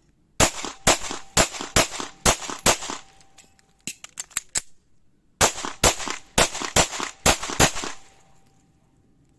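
Umarex Hammerli TAC R1 .22 LR semi-automatic carbine fired in two quick strings of about eight to ten shots each, with a few fainter cracks in the pause of about two seconds between them.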